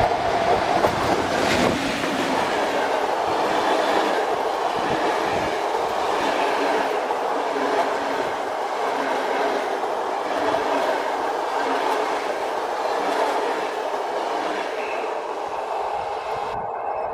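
A passenger train hauled by an EP07 electric locomotive passing close at speed: a steady rush of wheels running on the rails, with clacks as the coaches go over the track, easing a little near the end as the last coach goes by.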